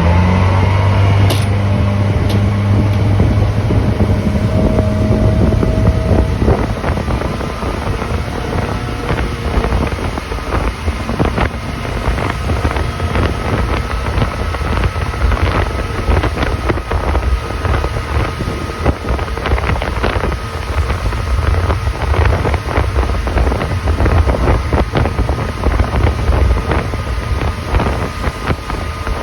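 Motorboat engine rising in pitch as the throttle opens at the start, then running steadily under way. Wind buffets the microphone, and after about six seconds it becomes gusty and choppy, with many short knocks.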